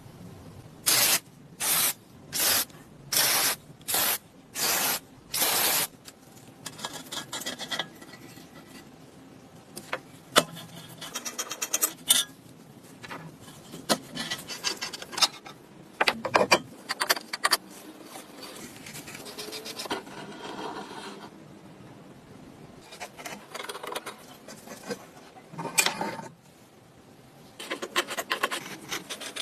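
Hand rubbing and rasping on the kerosene stove's parts. Seven even strokes come about a second in, roughly one and a half a second, followed by irregular scraping and rubbing with a few small knocks.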